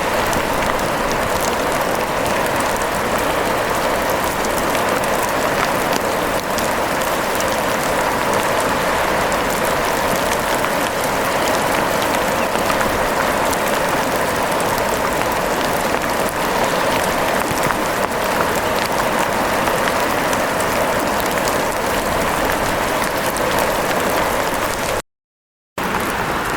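Steady heavy rain pattering, an even hiss speckled with fine drop ticks. It cuts out completely for under a second near the end, then resumes.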